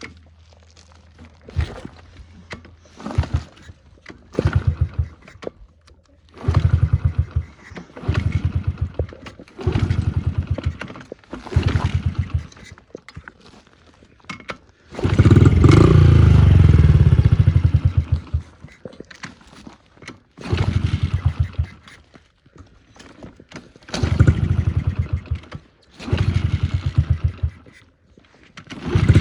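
Honda CRF50's small four-stroke single-cylinder engine being kick-started over and over. It catches for a second or two and dies each time, runs for about three seconds in the middle before stalling, and catches again at the very end.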